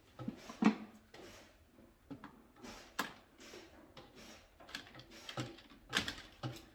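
Irregular clicks, taps and short rustles of hand tools, wire and parts being handled during electrical wiring work, with sharper clicks at about one, three and six seconds in.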